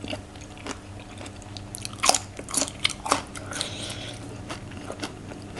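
Close-miked biting and chewing of raw green bean pods, with several sharp crunches, the loudest in the middle.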